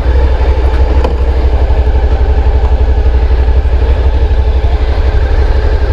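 Honda NC750 DCT's parallel-twin engine running steadily at low revs, a fast, even low throb with no revving.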